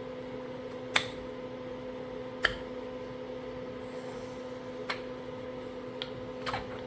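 A few sharp clicks and taps of small parts being handled, the two loudest about one and two and a half seconds in, over a steady low hum.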